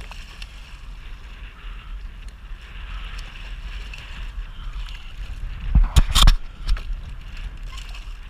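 Jet ski on open water: a steady low rumble with wind on the camera microphone, broken by a loud, brief burst of noise about six seconds in.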